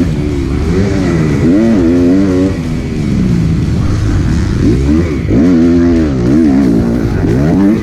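Dirt-bike engine, a Kawasaki KX250F 250cc four-stroke single, revving up and down again and again as the throttle is opened and closed while riding, its pitch rising and falling several times.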